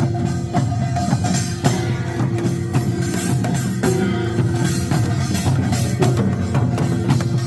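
Korean pungmul folk band playing: dense drum and percussion strokes under a melody of long held notes that changes pitch about every two seconds.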